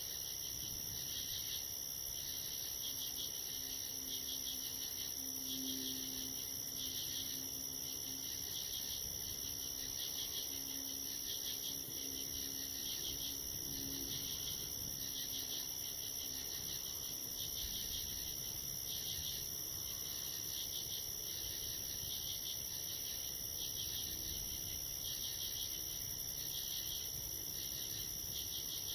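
Night insect chorus: a steady high cricket trill, with a second insect chorus pulsing about once a second beneath it.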